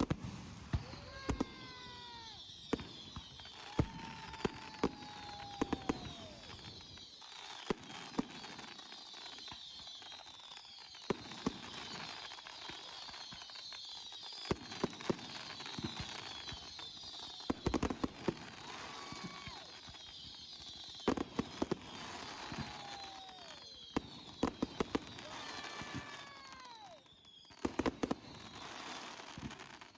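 A fireworks display: many sharp bangs at irregular intervals, several whistles falling in pitch, and a continuous high crackling fizz.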